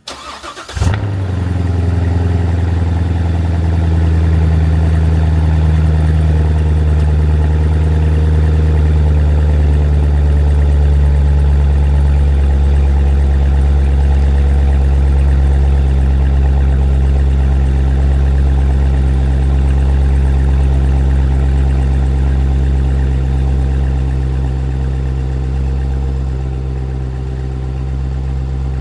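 Corvette C7's 6.2-litre V8 cold-starting after sitting a week: a brief crank, it catches about a second in and settles into a loud, steady fast idle. The idle eases slightly in the last few seconds.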